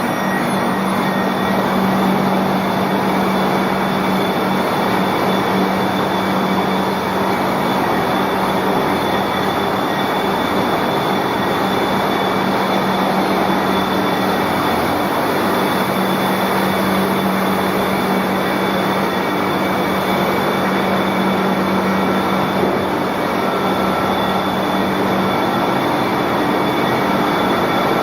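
Egg boiling and peeling production line running: steady machinery noise with a constant low hum.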